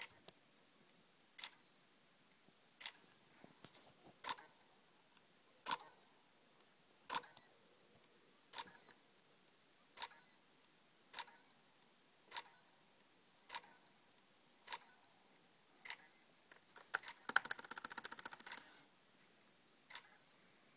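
MacBook Pro hard drive clicking about once every second and a half as the laptop repeatedly tries to start and fails, which the owner takes for the hard disk trying to turn on and failing. Near the end comes about a second of rapid, buzzing clicks.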